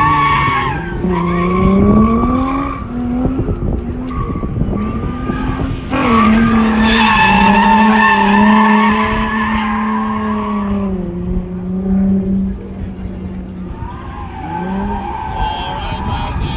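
A drift car's engine revving up and down as it slides, with tyres squealing. It is loudest from about six to ten seconds in.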